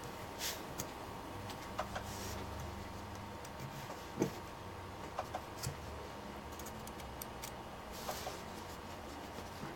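Faint, scattered small clicks and taps over a steady low hum, the sharpest about four seconds in: a laptop power jack being handled and set into the alligator clips of a helping-hands soldering stand.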